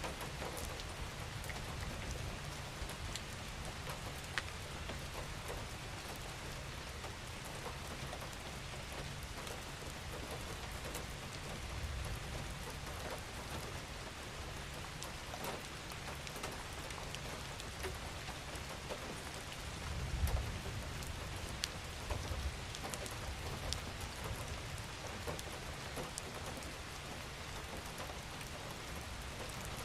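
Steady rain falling, with scattered individual drops ticking on a surface and a low rumbling swell around twenty seconds in.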